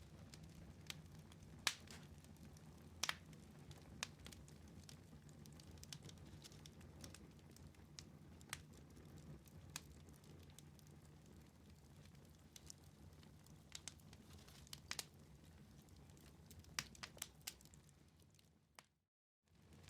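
Wood fire in a fireplace crackling and popping irregularly over a soft, steady low rumble of the flames. Near the end the sound fades out to silence for about half a second, then comes back.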